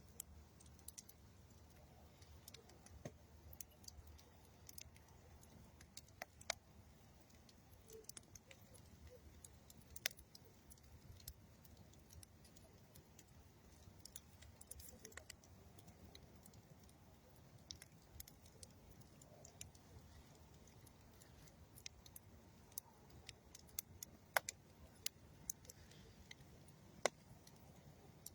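Campfire of old railroad wood and dead tree wood crackling: irregular sharp snaps and pops, a handful much louder than the rest, over a faint low rumble.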